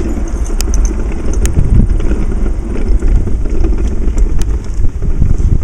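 A loud, gusty low rumble that rises and falls unevenly, with a few faint light clicks.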